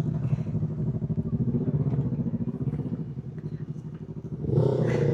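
Motorcycle engine running at low revs with a steady pulsing note. About four and a half seconds in, a louder engine sound with a higher note swells up, as a bike revs or pulls past.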